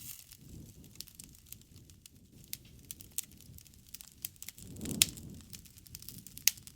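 Wood campfire crackling, with irregular sharp pops over a low rush. The rush swells and the loudest pop comes about five seconds in.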